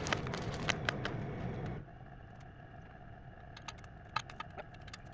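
Tractor dragging a pair of logs on a chain, working loudly for about the first two seconds and then easing off, with scattered clinks and knocks of chain and wood.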